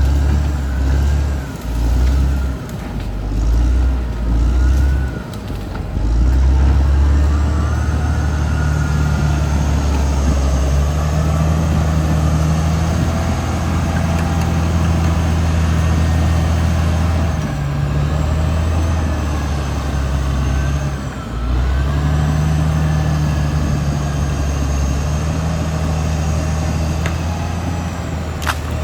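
Caterpillar D6R XL crawler bulldozer's diesel engine working, its low drone dipping and picking up again every few seconds as the load changes, with a thin high whine running over it.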